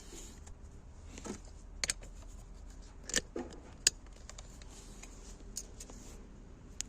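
Scattered light clicks and clinks of a compression tester and hand tools being handled, a few spaced a second or so apart, as the gauge is fitted to the next cylinder's spark plug hole.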